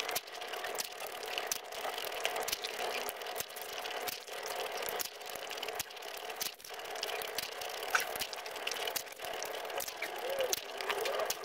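Close-miked chewing of crisp pani puri, with crunching of the hollow fried shells and wet mouth sounds from the spiced water they are filled with. Many sharp, irregular crackles and clicks.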